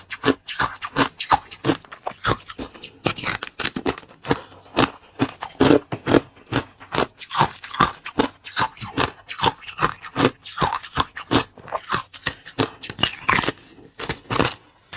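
Close-miked biting and chewing of a hard, crisp food: a rapid series of sharp crunches and cracks, several a second, with uneven loudness.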